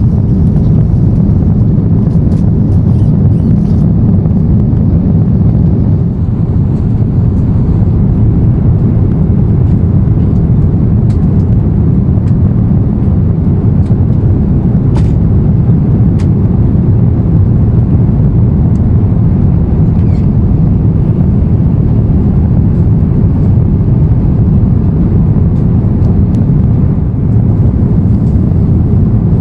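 Steady low rumble of an Airbus A350-900's cabin in flight, the drone of engines and airflow, with a few faint clicks.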